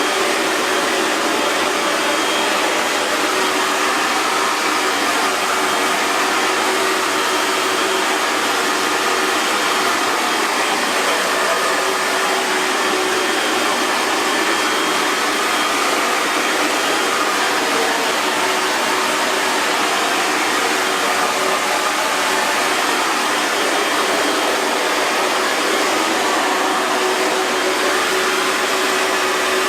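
Hair dryer running steadily: an even airy whoosh with a faint steady hum from its motor and fan.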